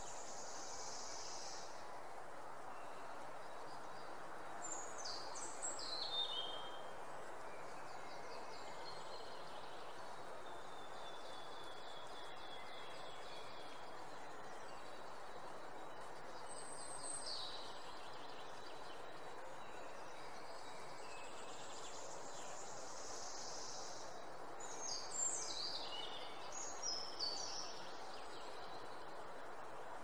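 Birds singing over a steady rushing background hiss. Quick runs of falling, whistled notes come about five seconds in and again around twenty-five seconds, with a high thin trill near the start and again past twenty seconds.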